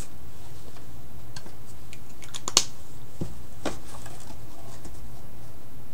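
A few sharp clicks and taps, the loudest about two and a half seconds in, over a steady low hum.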